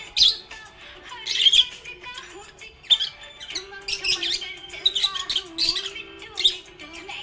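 Small pet parrots chirping and squawking in short, sharp bursts, about six or seven times, over background music with a long held low note.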